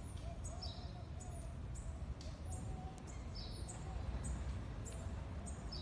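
Birds chirping in short, high, repeated calls over a steady low rumble.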